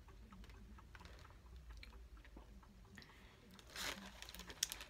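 Faint close-up chewing of a mouthful of English-muffin breakfast sandwich, with small wet mouth clicks, and a brief rustle just before four seconds in.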